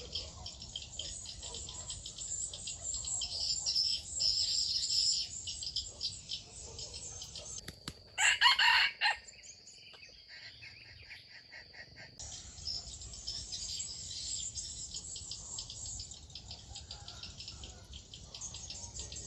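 A rooster crows once, loud and about a second long, roughly eight seconds in, over a steady high buzz of insects that drops out for a few seconds around the crow.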